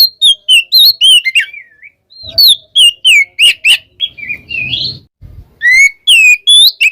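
Oriental magpie-robin (kacer) singing a loud, varied song of quick whistled notes sweeping up and down, with a short pause about two seconds in and a harsher, buzzy phrase around four to five seconds. It is the full song a male gives when calling out a rival.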